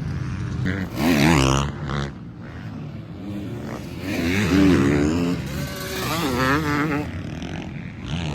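Dirt bike engines revving up and falling off again and again, rising and dropping in pitch as the bikes accelerate and shift on a motocross track.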